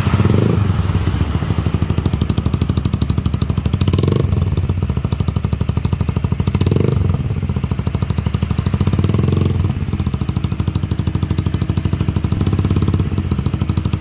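Honda Vario scooter's single-cylinder engine running through an aftermarket BEST3 exhaust, with a fast, even pulse. It is blipped up briefly several times, a few seconds apart.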